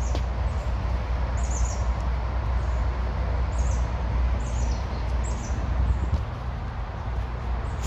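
Small bird chirping outdoors, short high calls repeated about once a second, over a steady low rumble.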